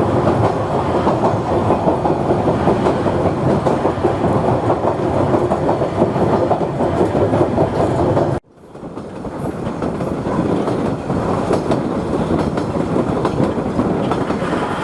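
Queensland Rail 2000 class rail motor running along the track, a steady mix of engine and wheel noise. The sound drops out abruptly about eight seconds in, then fades back up.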